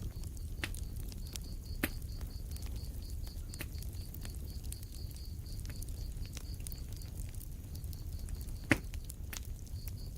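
Wood fire in a fireplace crackling: scattered sharp pops over a low steady rumble, the loudest pop near the end. A faint high pulsing, about four or five times a second, runs beneath.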